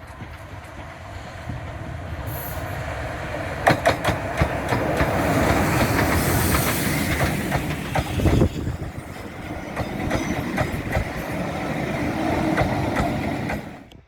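A heritage train passing close by, its wheels clattering over the rail joints, building over the first few seconds and then running steadily, with sharp clicks scattered through it; the sound cuts off abruptly near the end.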